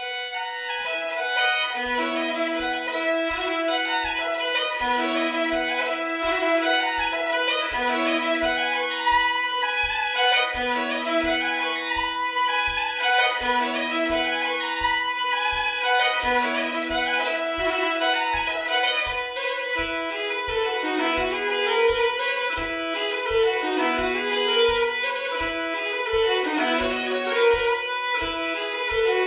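Hardanger fiddle played solo, bowing a lively Norwegian folk tune in double stops, two notes sounding together. A steady low thump about twice a second keeps the beat from about two seconds in.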